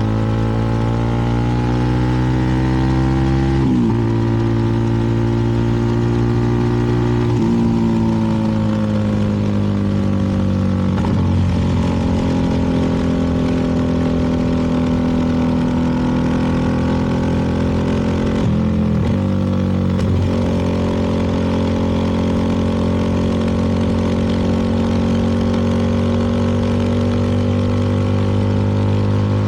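CFMoto 300NK's single-cylinder engine running under way, its pitch climbing and settling, with brief breaks a few times where gears change, over steady wind and road noise.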